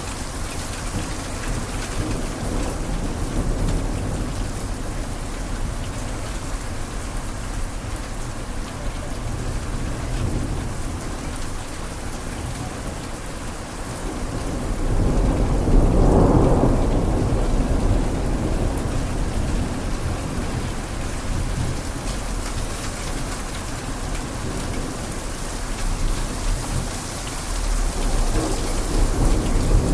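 Steady rain pattering on window glass. About halfway through, a low rumble swells up and slowly fades.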